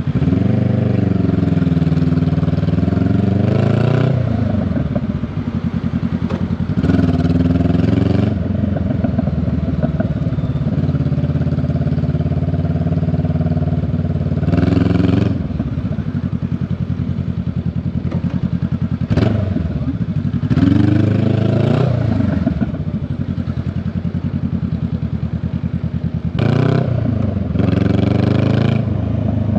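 Honda Rebel 500's parallel-twin engine and exhaust under way, with no speech over it. Several times the engine gets louder and its pitch rises and falls, as it does when the rider accelerates and shifts gears. Between these it runs more steadily.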